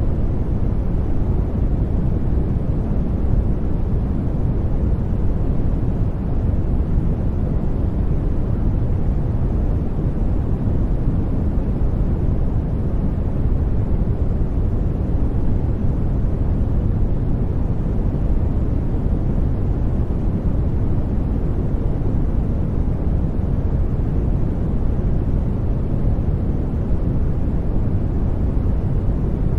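Steady, unchanging generated noise from a white noise track, deep and even, with most of its energy low and little high hiss, so it sounds like a dull rushing rumble rather than a bright hiss.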